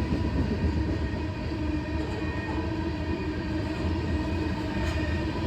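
Freight train rolling by with a steady low rumble and a constant hum.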